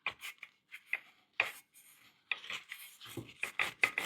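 Old, gummy foam-surround residue being scraped and rubbed off a subwoofer speaker driver in short, irregular strokes, with a brief pause about two seconds in.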